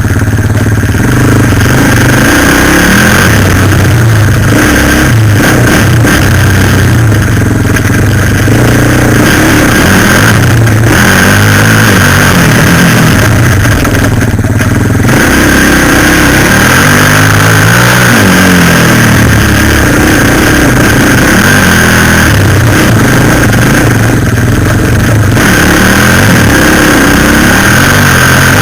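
Suzuki LT-Z400 quad bike's single-cylinder four-stroke engine running loud and close, its revs rising and falling again and again as it accelerates and eases off.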